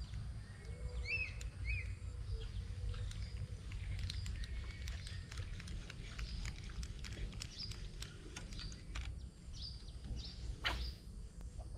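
Small birds chirping in short notes, over a steady low rumble, with scattered light clicks and a sharper click near the end.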